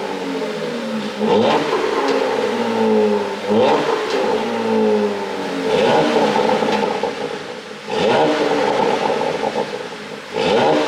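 Porsche Panamera 4's twin-turbo V6 being blipped in repeated revs about every two seconds. The revs fall away between blips, with crackles and pops from the exhaust on the overrun.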